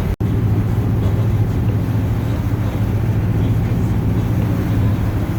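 Steady in-cab drone of a Chevrolet truck's 8.1-litre Vortec big-block V8 and road noise while driving, with a low steady hum under it. The sound cuts out for an instant just after the start.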